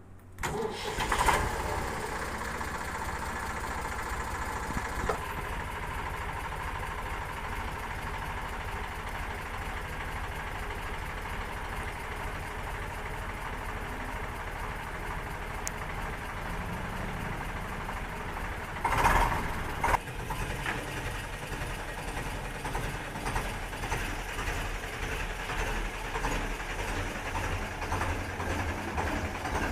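Tractor's diesel engine starting abruptly, then idling steadily, with a brief louder burst about two-thirds of the way through.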